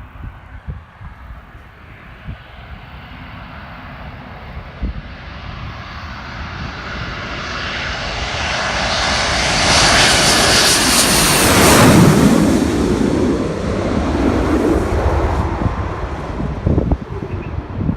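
Twin-engine military jet flying past: the jet noise builds steadily for about ten seconds, peaks, then falls away with a drop in pitch as it passes.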